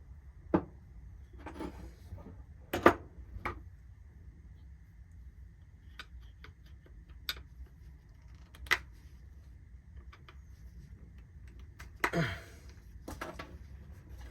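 Small metal clicks and knocks, irregularly spaced, from tools and parts being handled while a lawn-mower carburetor is taken apart, with a longer scraping sound near the end.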